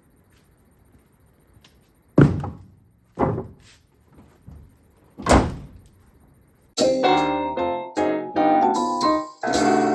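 Four heavy thunks, the last the loudest, then keyboard music starts about two-thirds of the way in with a run of bright piano-like notes.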